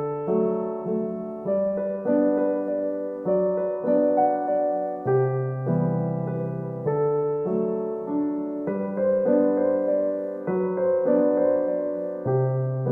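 Gentle solo piano background music, notes struck one after another in a slow, even rhythm and left to fade.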